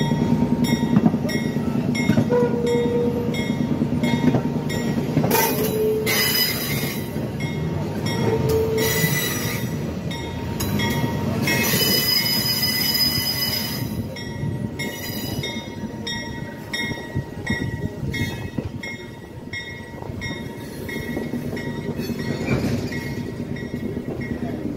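Passenger train rolling along the track, heard from an open coach window: steady running noise of the cars and wheels, a regular high tick about twice a second, and louder stretches of wheels squealing about a quarter of the way in and around the middle.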